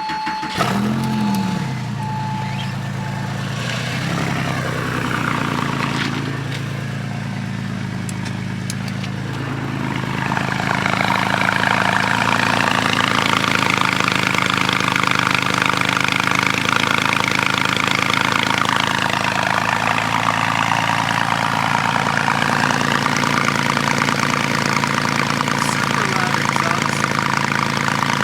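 Porsche 911 Carrera S flat-six engine cold-started: it catches and flares up briefly, then settles into a steady idle. From about ten seconds in the exhaust sounds louder and fuller and stays there.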